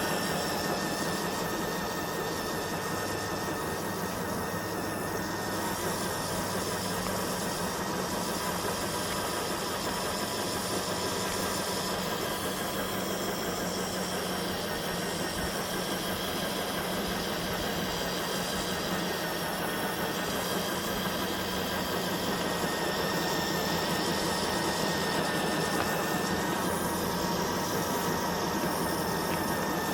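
FMS FJ40 RC crawler's electric motor and gearbox whining steadily as the truck drives along a forest trail.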